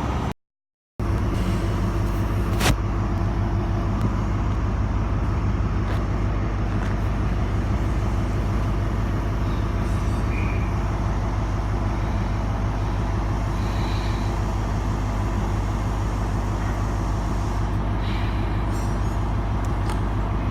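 Diesel engines of a standing CrossCountry HST's power cars idling steadily, a constant low hum with a click near the start.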